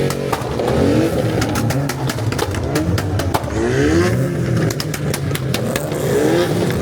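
Engines revving hard again and again, each rev a rising whine that drops back, with many sharp cracks scattered throughout.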